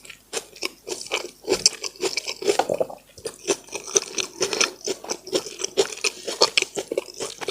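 Chewing and eating braised pork in brown sauce, close to the microphone: a run of quick, irregular mouth clicks and smacks.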